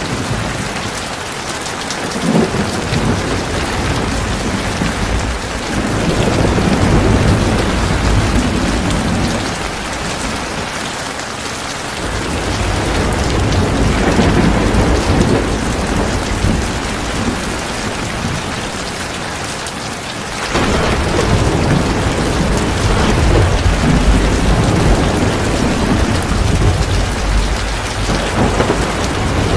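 Heavy rain pouring steadily, with thunder rolling in three long, low rumbles that swell up and fade; the last one comes in suddenly about two-thirds of the way through.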